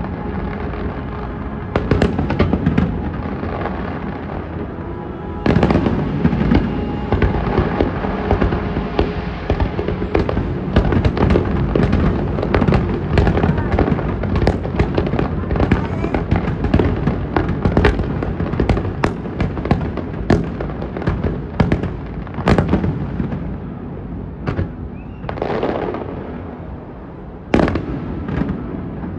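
Fireworks display: a dense run of bangs and crackles, becoming much busier about five seconds in, with music playing underneath.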